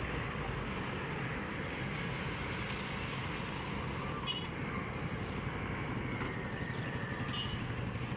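A large diesel engine running steadily with a low, rapidly pulsing rumble, with two brief light clicks about halfway through and near the end.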